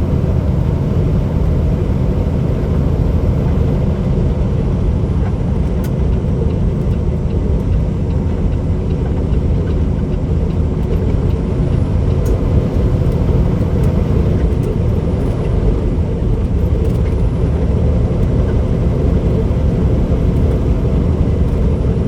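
Peterbilt 389 semi truck cruising on the highway, heard from inside the cab: a steady low engine drone with road noise.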